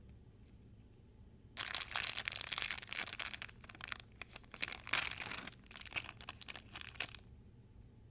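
Crinkling and tearing of toy packaging wrapper as an LOL Surprise doll package is unwrapped, in irregular bursts for about five and a half seconds, starting about a second and a half in.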